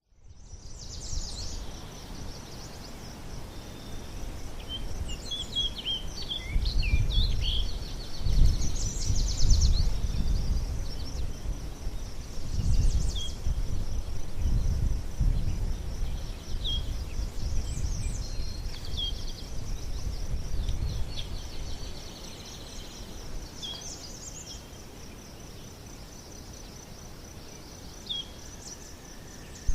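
Outdoor nature ambience: a steady, evenly pulsing high insect trill throughout, with short bird chirps scattered over it. A low rumble swells and fades through the middle and dies down a little after twenty seconds in.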